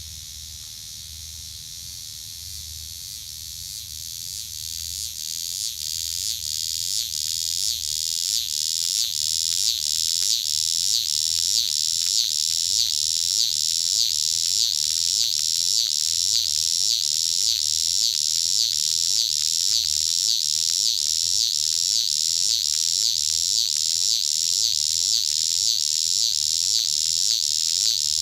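Cicada calling up close: a loud, high buzz that swells over the first ten seconds or so, then holds steady with a regular pulsing rhythm.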